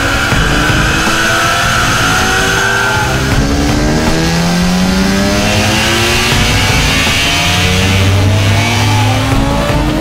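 Sport motorcycle engine revving hard under acceleration, its pitch climbing again and again as it shifts up through the gears.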